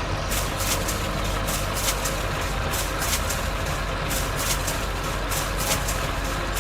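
A large engine running steadily with a low rumble, with quick, uneven clicking over it.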